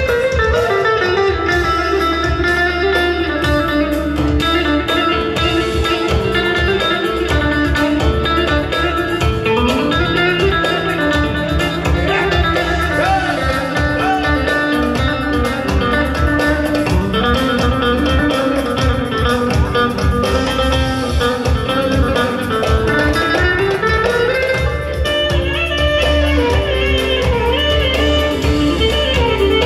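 Band playing the instrumental interlude of a Turkish folk song, with a plucked-string lead melody over a steady bass line.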